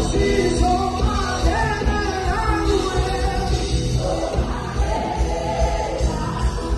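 Singing voices over a full band with a heavy bass and drum low end, playing continuously.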